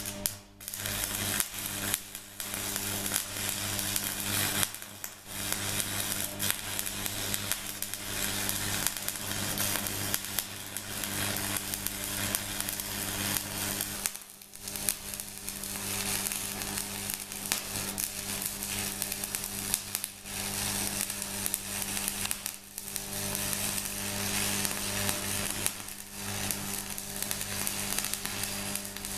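Stick-welding arc crackling and sizzling steadily as a crack in a differential casing is welded, with the welder's steady hum underneath. The arc drops out briefly a few times, most clearly about 14 seconds in.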